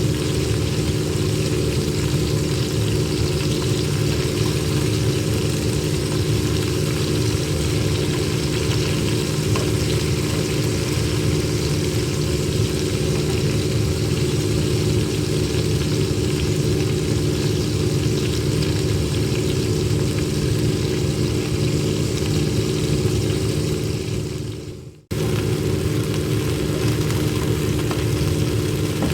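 A steady mechanical hum with a few constant tones, like a motor or fan running. It fades out and drops away briefly about 25 seconds in, then comes back suddenly at the same level.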